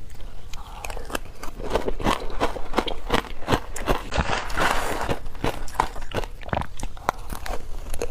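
Teeth biting into and crunching wet frozen matcha ice: a rapid, uneven run of sharp crunches and cracks.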